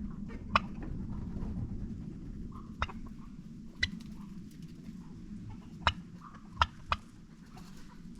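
Chickens making soft, low clucking sounds over a steady low rumble, with six short sharp clicks or taps scattered through.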